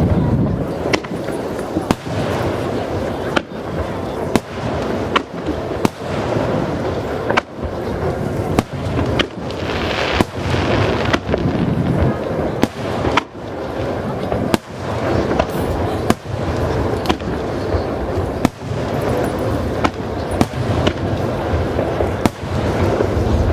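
Aerial fireworks going off in quick succession: sharp cracks and booms every half second to a second over a constant rumble, with a hissing crackle about ten seconds in.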